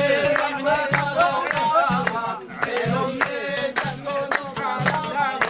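Rababa being bowed, playing a wavering, ornamented melody over a steady beat of sharp hits.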